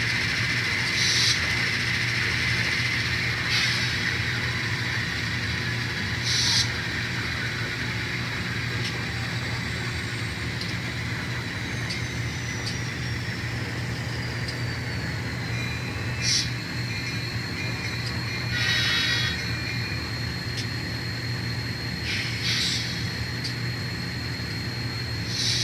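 Sound-equipped N scale model diesel locomotives playing a steady diesel engine rumble through their small onboard speakers. Short hisses break in about seven times, and a faint high whine slides down and then holds steady in the second half.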